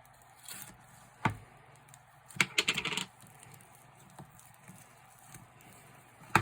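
Slime and its plastic tub being handled: a few sharp clicks, and about two and a half seconds in a brief run of sticky, crackly pops.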